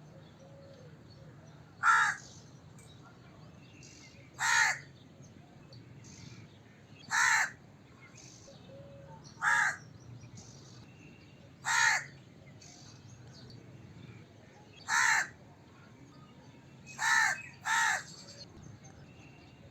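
A crow cawing: eight single harsh caws, one every two to three seconds, the last two in quick succession.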